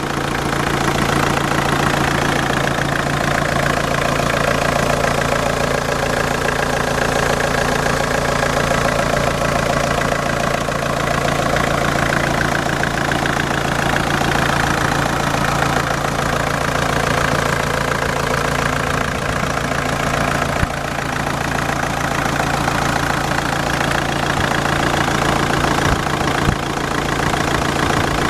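Vauxhall Astra J 1.7 CDTi (A17DTJ) four-cylinder common-rail turbodiesel engine idling steadily, with two brief knocks about two-thirds of the way through and near the end.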